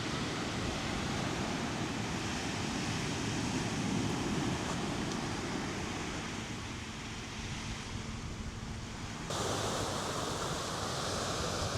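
Steady outdoor rushing noise, like wind or surf, with no tones in it. About nine seconds in it changes abruptly to a brighter hiss.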